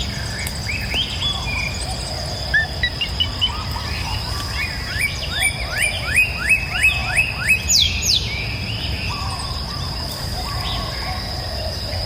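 Tropical forest birds calling over a steady high insect drone. A few scattered chirps give way, about five seconds in, to a run of about nine quick up-slurred whistled notes, roughly three a second, ending in one sharp rising note.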